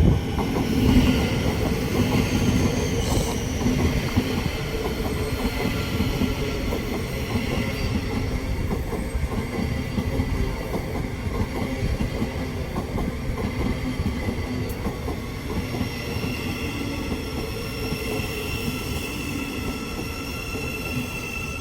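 Thameslink Class 700 electric multiple unit pulling into the platform and slowing. Its rumble is steady, with a low hum throughout and high whining tones that grow stronger in the last third.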